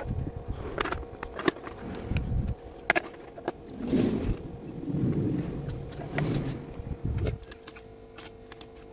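Handling noise from a boxed kit and its packaging: scattered taps, clicks and knocks with low rubbing sounds, over a steady faint hum.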